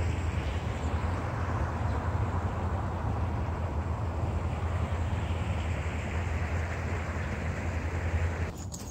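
Steady rumble of a freight train rolling by, which drops away suddenly near the end.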